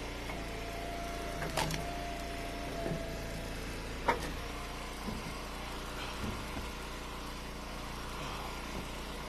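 Eastonmade engine-driven hydraulic wood splitter running steadily, with a thin whine over the first three seconds or so and sharp wooden knocks of split ash firewood, the two loudest about one and a half and four seconds in, smaller ones later.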